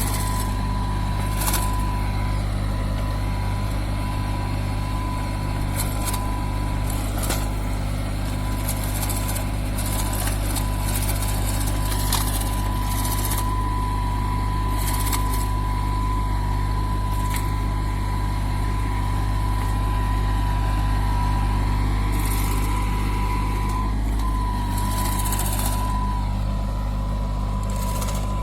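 Kubota B2441 compact tractor's diesel engine running steadily at an even speed, with a thin steady whine above the engine hum and a few scattered light clicks.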